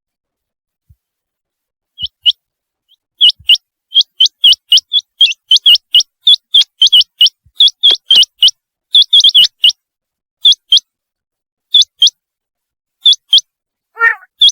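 Common quail calling: a rapid run of short, sharp, whistled notes, mostly in twos and threes, with a few pauses. A softer, lower call comes just before the end.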